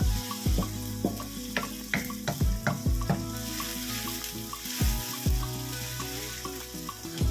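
Chopped garlic and red onion sizzling in hot cooking oil as they are stirred in the pan, over background music with a steady beat.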